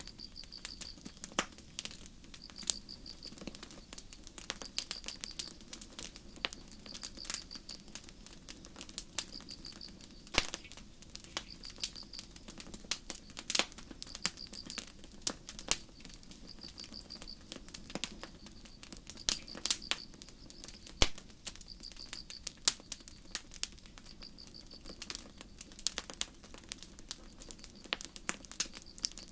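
Campfire crackling, with irregular sharp pops and snaps, over a steady low rush from the burning wood. Crickets chirp in short high trills about once a second.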